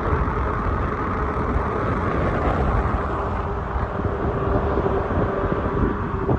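Wind buffeting the microphone on a moving e-bike, with a steady motor or engine hum running under it.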